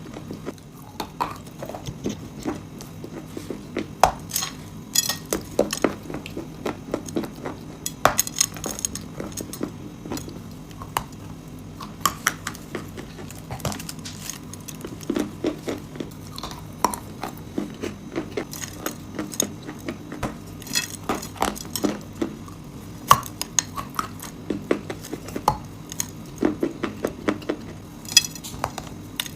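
Dry chalk and clay pieces crunching and cracking in a quick, irregular run of sharp snaps and clinks, over a low steady hum.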